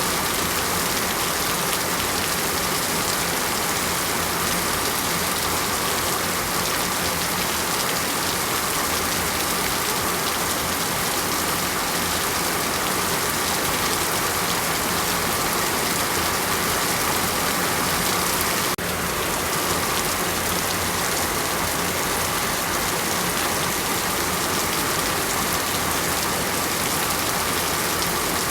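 Heavy rain falling steadily, a dense even hiss, with a brief dip about two-thirds of the way through.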